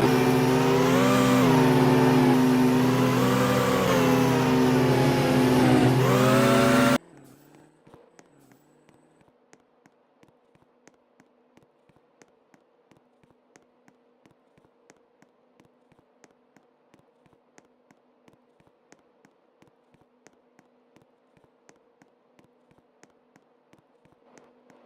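An engine running, its pitch wavering up and down, then cutting off abruptly about seven seconds in. After that come faint regular ticks, about three a second, over a low hum.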